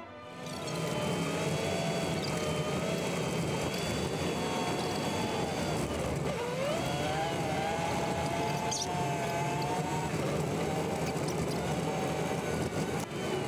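Land Rover Defender TD5's five-cylinder turbodiesel engine running steadily on a gravel track, heard from inside the cab with road and tyre noise. A whine in the engine note dips briefly about six seconds in and climbs again.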